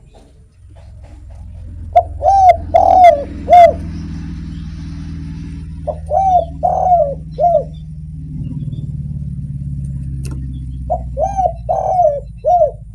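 Spotted dove (derkuku) cooing in three phrases of four or five short notes each, over a low steady rumble.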